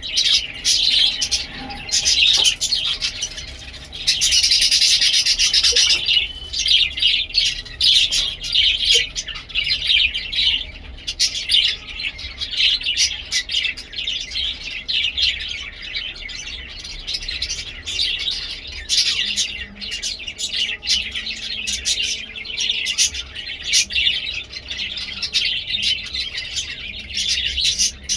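Budgies chattering and chirping in a continuous, busy stream of quick high-pitched chirps and warbles, with a louder, denser burst about four seconds in.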